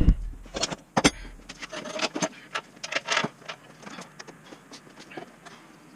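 Irregular clicks, knocks and light clatter of tools and metal parts being handled while a drill press is set up, the sharpest knock about a second in, with smaller ones trailing off.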